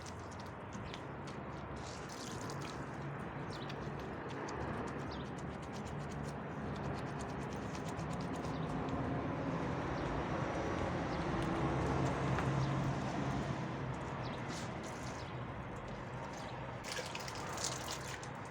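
Water running and splashing steadily, growing louder around the middle before easing off.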